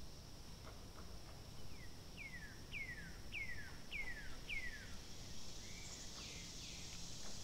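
Bird song: a run of about six clear whistled notes, each sliding down in pitch, about one every 0.6 s, with another call near the end. A steady high-pitched hiss runs underneath.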